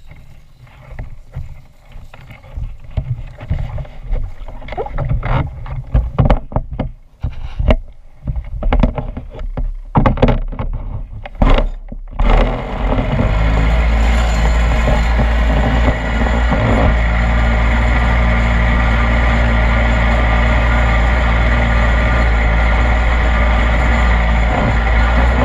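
26cc two-stroke petrol engine of an RC boat, heard from a camera on the boat. For about the first twelve seconds there are irregular thumps and splashes. Then a loud, steady engine note sets in abruptly and holds.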